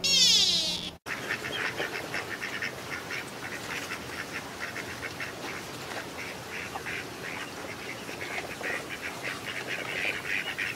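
A loud call sliding down in pitch in the first second. Then a rapid run of short, high chirping calls from whistling ducks, several a second.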